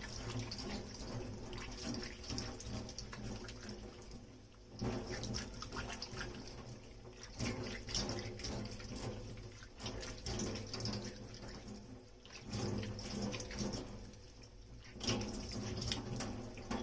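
Water running from a kitchen tap into a sink while dishes are washed, the flow rising and falling in uneven surges, with small scattered knocks and splashes.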